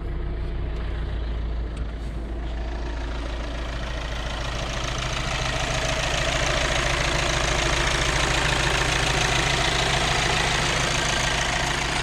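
Volkswagen Amarok engine idling steadily after its front-end and radiator repair, with a rushing noise that builds over the first few seconds and then holds.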